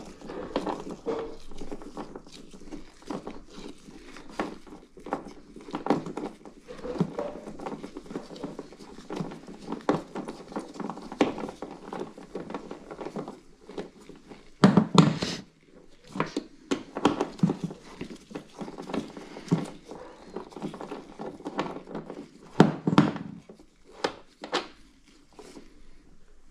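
Irregular handling noise from repair work on a tumble dryer: a string of short knocks, taps and clicks, with two louder thumps, one about halfway through and one near the end.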